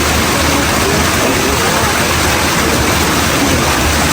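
Steady rush of running water, like water falling from the spouts of a holy spring bathing pool, with faint voices under it.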